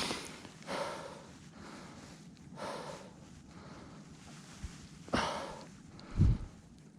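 A person breathing out in heavy breaths about every two seconds, with a short low thump about six seconds in.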